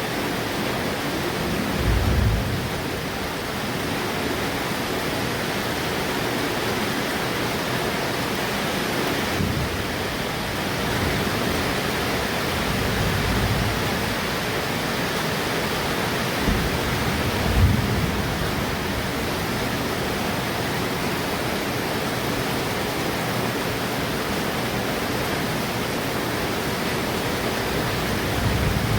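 Heavy rain falling steadily, a dense, even hiss, with a few low rumbles of thunder: one about two seconds in, a sharper one a little past halfway, and another near the end.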